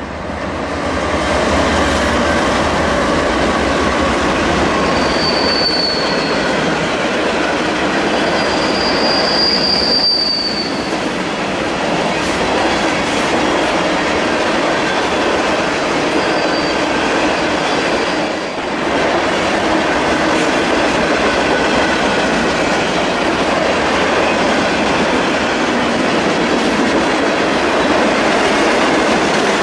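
Diesel freight locomotives passing close by, then a long string of covered grain hopper cars rolling past with steady wheel-on-rail noise. Two brief high-pitched wheel squeals come about five and ten seconds in.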